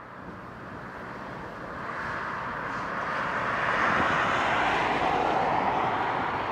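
Airbus A300-600ST Beluga's General Electric CF6-80C2 turbofans on landing approach, growing steadily louder as the aircraft nears. The main pitch of the jet noise drops in the last couple of seconds as it passes.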